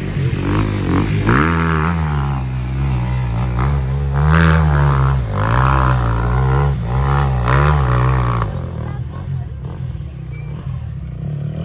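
Off-road racing engines revving, the pitch rising and falling repeatedly with the throttle for about eight seconds, then dropping to a lower, steadier drone near the end.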